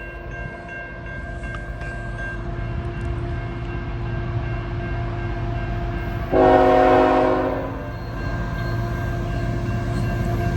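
The five-chime Nathan K5HL horn of a CN diesel locomotive gives one loud blast of about a second and a half, roughly six seconds in, over the steady rumble of the approaching train, which slowly grows louder.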